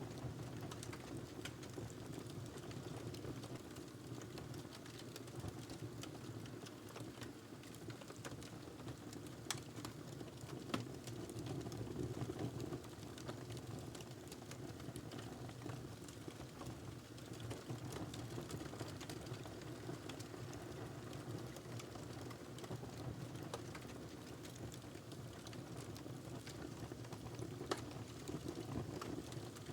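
Log fire crackling in a fireplace: a steady low rumble of burning with many small irregular crackles and a few louder pops, two about ten seconds in and one near the end.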